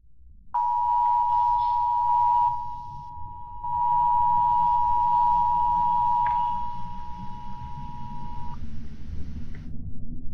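Emergency alert attention tone of a tornado-warning broadcast: a steady, piercing tone held for about eight seconds, briefly dipping in level a couple of seconds in, over a low rumble.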